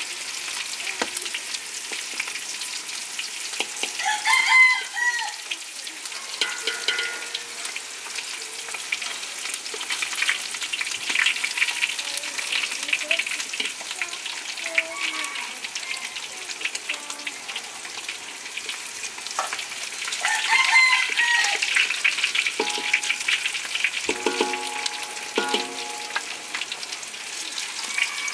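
Pork ribs frying in hot oil, a steady crackling sizzle. A rooster crows twice over it, about four seconds in and again after about twenty seconds.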